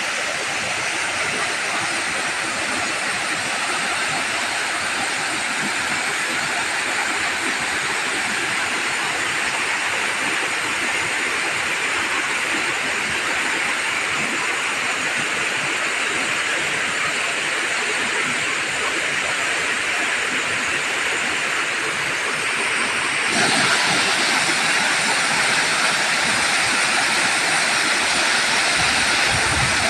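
Waterfall: rushing water making a dense, steady hiss, which turns abruptly louder and brighter about 23 seconds in.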